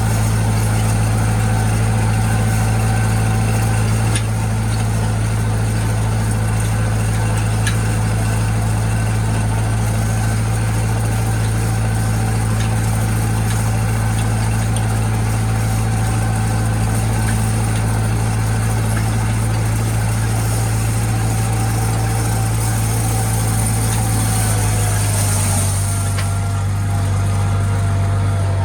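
International Harvester tractor engine running steadily with a deep hum, its note dropping slightly near the end.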